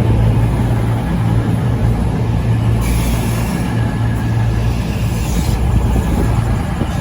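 CrossCountry Class 220 Voyager diesel-electric unit at the platform, its underfloor diesel engines giving a steady low drone. A hiss joins in for about two and a half seconds in the middle.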